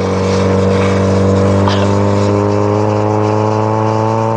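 Honda Civic's engine running steadily under power, its pitch climbing slowly as the car gathers speed on the lake ice, with a steady rushing noise underneath.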